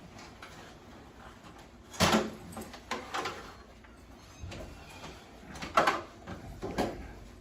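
A few separate knocks and clatters, like things being handled or a door or cabinet moving. The loudest come about two seconds in and again near six seconds.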